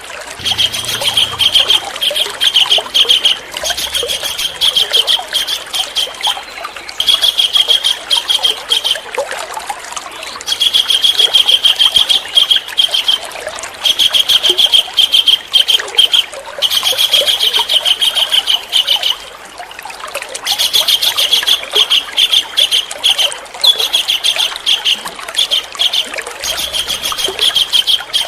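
A songbird singing high, rapid trills in phrases of one to two seconds, repeated over and over with short pauses between.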